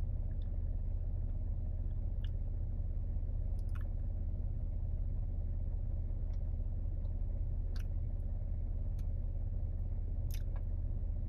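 A steady low hum with a few faint, scattered clicks, such as light mouth or handling sounds.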